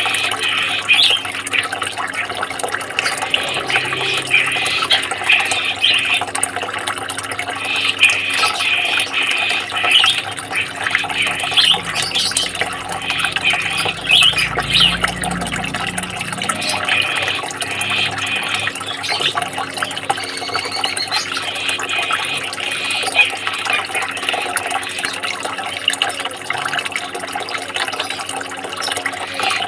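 Running water trickling and splashing steadily, played as a calming sound for caged songbirds.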